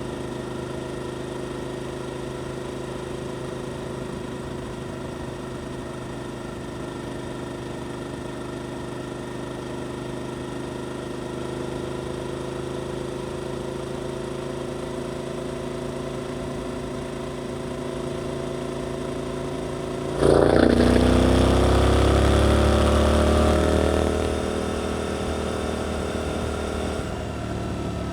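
Suzuki GSX-8S parallel-twin motorcycle engine with an Arrow aftermarket exhaust, running steadily at a constant engine speed, then the throttle is opened sharply about 20 seconds in: the exhaust note jumps louder and the revs climb for a few seconds before easing back.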